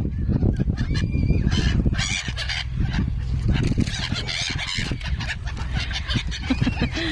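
A flock of birds calling repeatedly, with short honking, cawing-type calls, while they feed on scattered popcorn.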